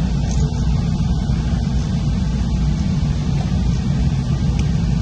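Steady low rumble of a Metra commuter train running, even in level with no sharp changes.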